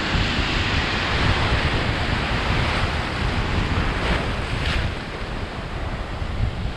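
Atlantic surf breaking and washing close by, with wind buffeting the microphone; the wash is loudest in the first couple of seconds and eases off about five seconds in.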